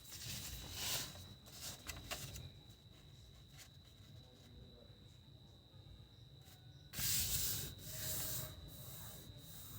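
Sheet of paper rustling and being creased as it is folded, in short scrapes, the loudest about seven seconds in. A faint steady high whine sits underneath.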